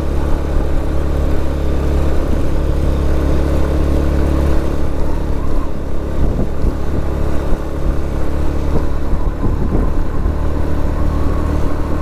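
112 cc TVS Victor motorcycle's single-cylinder engine running steadily under way, a continuous low hum with a noisy rush over it.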